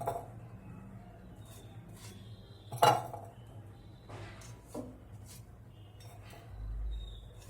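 Kitchen utensils clinking and knocking against cookware while oil is applied to a kulcha on a microwave tawa: a few separate clanks, the loudest about three seconds in.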